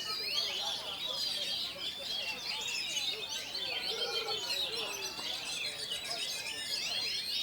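Oriental magpie-robin (kacer) singing a continuous, rapid, varied song of quick chirps, trills and whistled phrases.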